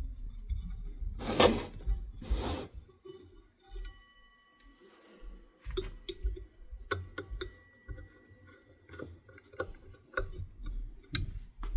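Hard parts being handled. Two short rushing noises near the start, then a string of sharp clicks and light clinks, some ringing briefly.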